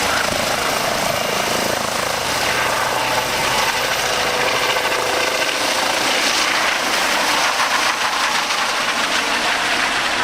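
Medical rescue helicopter running, its rotor and turbine making a loud steady noise.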